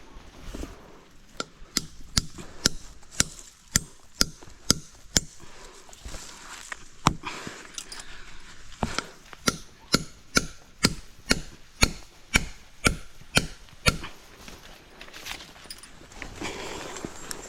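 Repeated chopping into wood, about two strokes a second, with a pause partway through.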